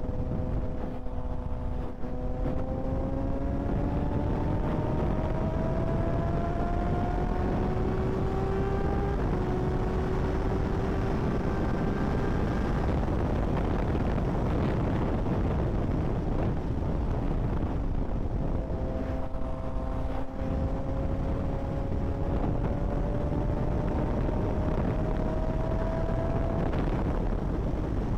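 Kawasaki ZX-6R 636's inline-four engine pulling under heavy wind rush on the microphone, its pitch climbing slowly with a gear change about nine seconds in. Midway the engine sinks under the wind noise for a few seconds, then pulls and climbs again.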